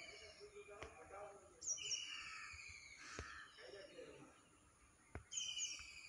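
Faint bird calls: a short high call, a quick falling chirp over a longer falling note, heard twice about four seconds apart, with a few soft ticks between.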